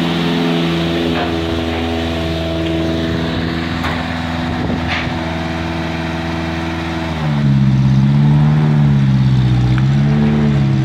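ARO 10.4 4x4's engine running at a steady idle. About seven seconds in it gets louder, and the revs rise and fall a few times.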